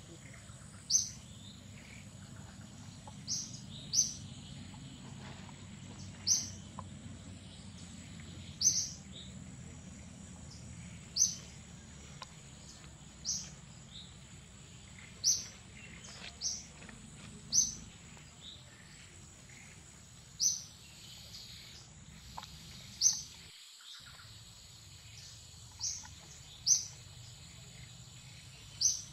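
A bird giving a short, high chirp over and over, one to three seconds apart, over a steady high-pitched whine in forest.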